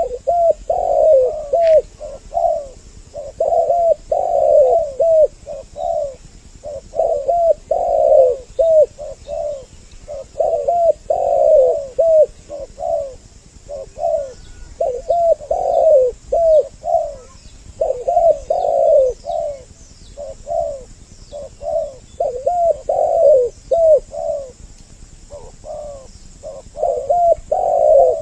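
Spotted doves cooing in a continuous run of short repeated phrases. Two birds call over each other, as in a double-voice lure call for trapping doves.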